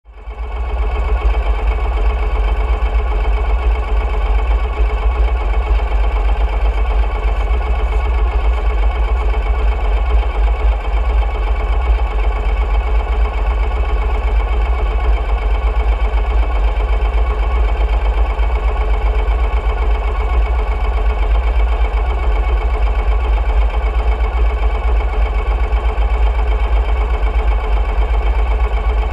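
Ural sidecar motorcycle's air-cooled flat-twin engine running steadily, with a heavy low rumble and no revving.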